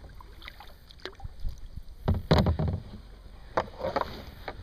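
Kayak paddle strokes in the water: irregular splashes and drips, the loudest a little past two seconds in.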